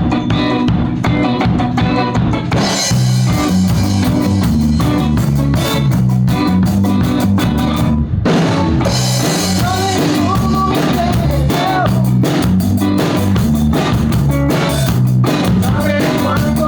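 Rock band playing with drum kit, guitar and bass, with sung vocals. The band stops for a moment about eight seconds in, then comes straight back in.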